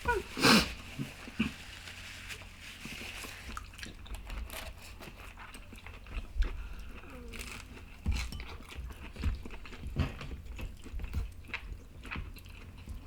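Quiet eating: chewing, with scattered light clicks of utensils, and a short voice-like sound near the start.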